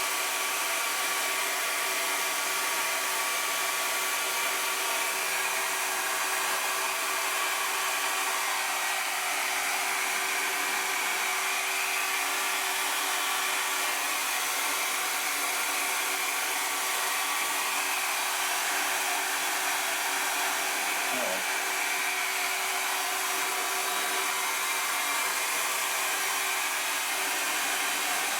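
A handheld electric hot-air blower runs steadily with a constant rushing hum.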